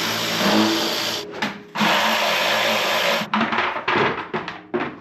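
A handheld power tool running in two bursts of about a second and a half each, then light clicks and clatter of handled parts.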